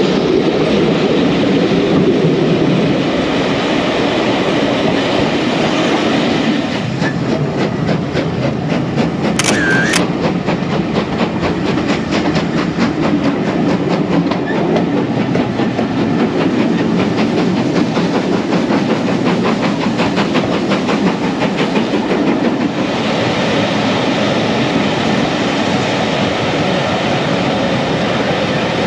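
Passenger train running along the track: a steady rumble with a long run of rapid wheel clicks through the middle, and one brief sharp sound about ten seconds in.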